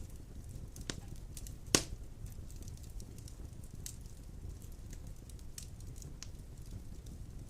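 Wood fire of large logs burning in a fireplace: a steady low rumble of flame with scattered crackles, and one loud pop a little under two seconds in.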